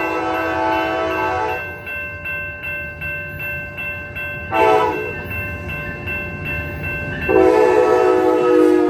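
Siemens SC-44 Charger diesel locomotive sounding its multi-chime horn: a long blast, a short one about four and a half seconds in, and a final long blast near the end, the closing long-short-long of the grade-crossing warning, over the rumble of the passing train. A crossing bell rings steadily underneath.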